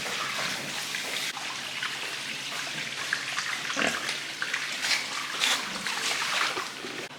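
Pigs vocalizing, with several louder calls between about three and a half and six and a half seconds in.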